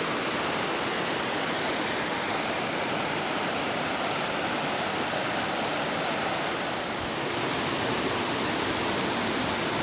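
Steady rushing water of a river cascade, an even hiss with a thin high-pitched band on top.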